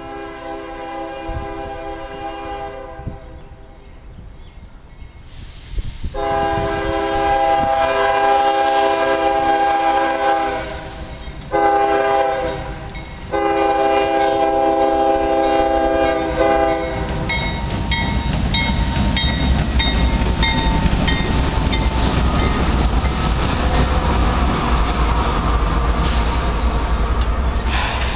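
Diesel freight locomotive's air horn sounding a chord in four blasts, long, long, short, long: the standard grade-crossing signal. About 17 seconds in, the horn stops and the intermodal train passes close by with a loud, steady rumble of locomotive and wheels on the rails, with some clickety-clack.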